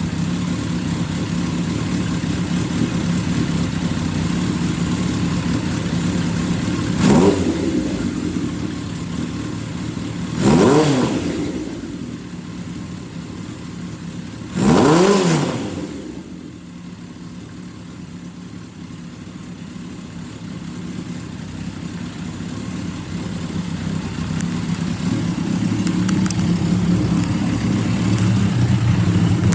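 Kawasaki Zephyr 1100RS air-cooled inline-four engine idling, blipped three times, each rev rising and falling quickly, the last two strongest.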